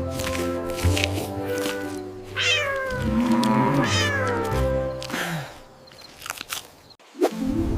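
Two cat meows, each sliding down in pitch, over gentle background music, followed by a few light clicks near the end.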